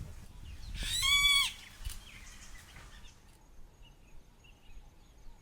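Golden-tailed woodpecker calling: one loud, drawn-out note about a second in that rises and then falls in pitch.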